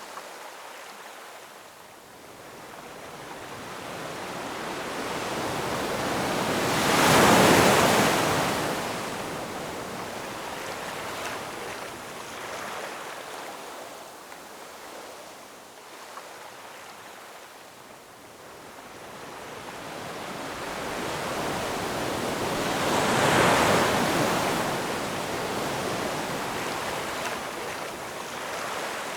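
Ocean waves breaking on a shore: two large waves crash about 15 seconds apart, each building over a few seconds, peaking and washing back slowly, over a steady hiss of surf.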